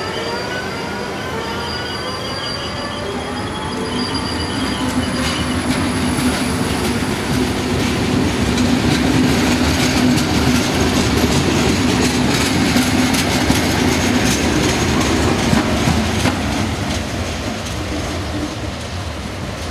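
Electric regional train of double-deck coaches and a locomotive passing close by: steel wheels rolling and clacking over the rail joints, with high-pitched wheel squeal in the first few seconds and a low steady hum. It is loudest about halfway through and eases off near the end.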